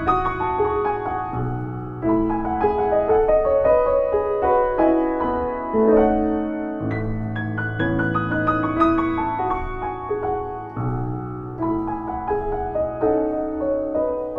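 Solo piano playing quick rippling arpeggios over deep bass notes that are held and change every few seconds.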